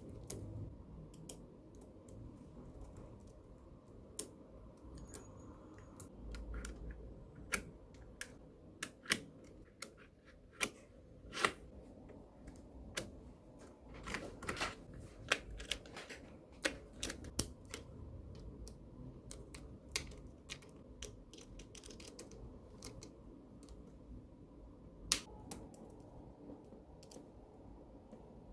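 Small magnetic balls clicking together as they are snapped into place, a sharp irregular click about once a second, over a low steady background hum.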